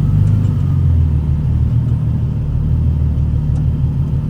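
TVR T350c's 4.5 litre Speed Six straight-six engine running steadily at low revs, a deep low rumble.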